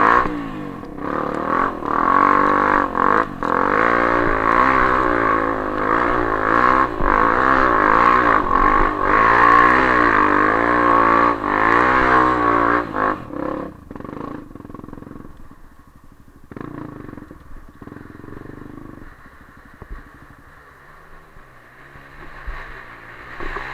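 Dirt bike engine revving hard and unevenly, pitch rising and falling, as the motorcycle struggles through mud. About 14 s in it drops to a quieter, steadier running.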